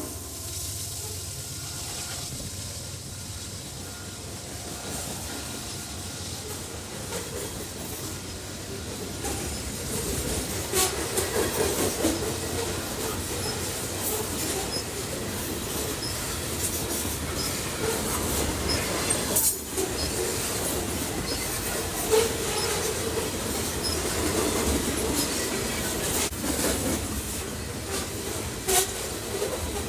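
A train rolling past with a steady rumble. From about ten seconds in it grows louder, and the wheels click and clank over the rail joints throughout.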